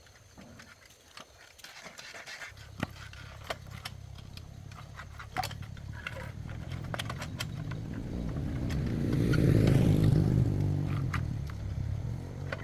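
A vehicle engine's low rumble starts a couple of seconds in, grows steadily louder to a peak about ten seconds in, then eases off. Scattered sharp clicks and scrapes sound throughout.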